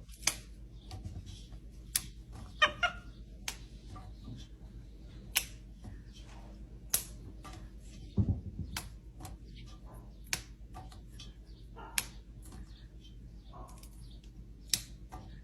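About a dozen sharp clicks and taps at irregular intervals, over a faint steady hum.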